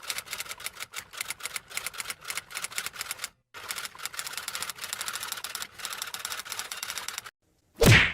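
Typewriter sound effect: rapid, uneven key clacks for about seven seconds with one short break, then a single loud, sharp hit near the end.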